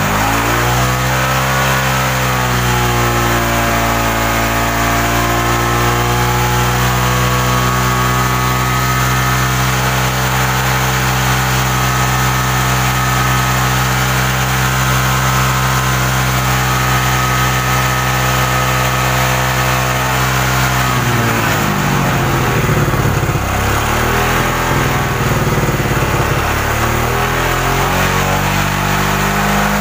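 Suzuki Shogun 125's single-cylinder four-stroke engine running at a steady fast idle. Its speed wavers about two-thirds of the way through and settles higher near the end. The engine is being run hot to bring on a cut-out when hot, which the mechanic traces to a weak pulser (ignition pickup coil).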